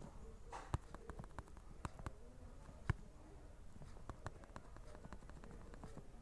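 Scattered light clicks and taps at an irregular pace over a faint low background, with one sharper knock about three seconds in.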